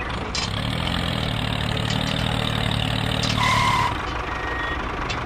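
Vehicle engine running steadily with a low hum, and a short beep about three and a half seconds in.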